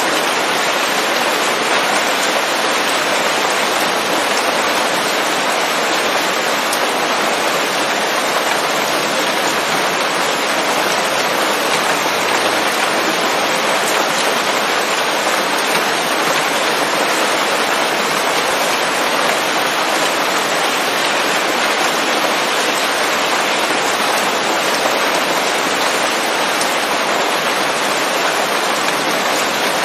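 Steady rain falling on leaves: an even, unbroken hiss of drops with no thunder.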